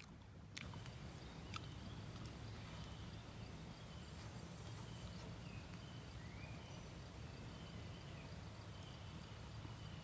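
Insects trilling in a steady, high-pitched drone that starts abruptly about half a second in.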